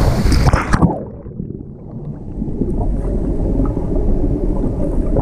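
Rushing waterfall water, then about a second in the sound turns dull and low as the microphone goes under the surface: muffled churning and bubbling water heard underwater.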